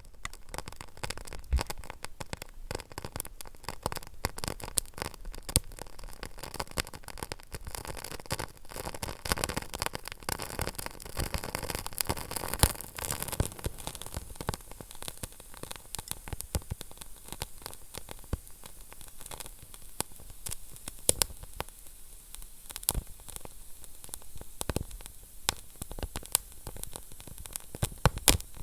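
Wood fire burning in a fireplace: a steady hiss with frequent sharp crackles and pops at irregular intervals, busiest about halfway through.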